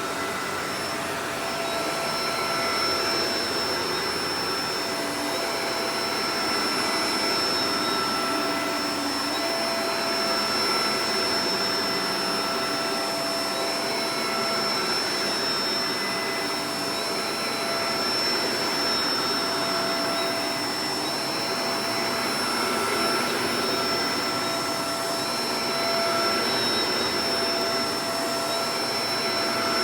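Shark Professional Powered Lift-Away DLX (NV586) upright vacuum cleaner running steadily, its motor noise topped by a steady high whine.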